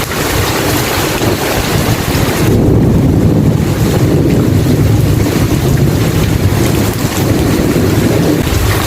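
Steady heavy rain with a long low roll of thunder building about two and a half seconds in and rumbling on until near the end.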